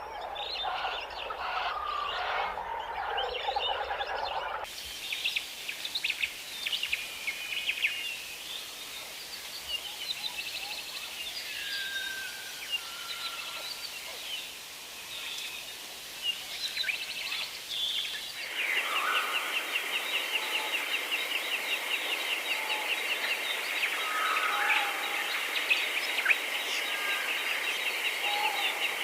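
Small birds chirping and calling outdoors, many short overlapping calls. The background shifts abruptly twice where recordings are joined, and from about two-thirds of the way through a fast, continuous trill runs under the chirps.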